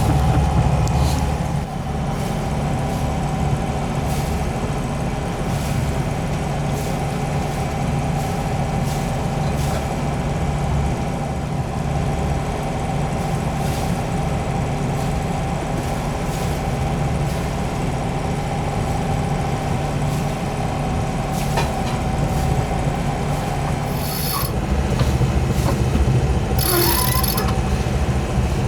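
Sailboat's inboard engine running steadily under way, a low even drone with a faint steady whine above it; two brief hissing sounds come in near the end.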